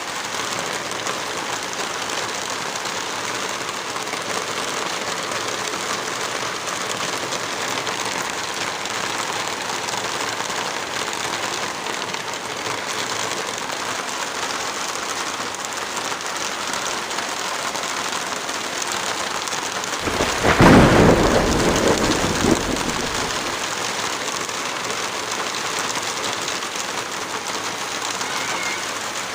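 Steady heavy rain falling, with a clap of thunder about two-thirds of the way through that rumbles on for about three seconds.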